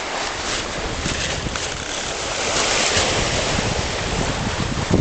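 Wind buffeting the microphone over the steady rush of sea water and waves around a sailing yacht under way.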